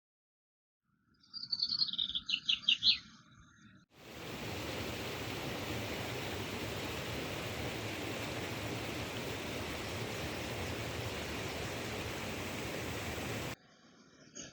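A bird gives a short phrase of quick chirps, each falling in pitch. About four seconds in, a steady rushing noise cuts in and stops abruptly near the end.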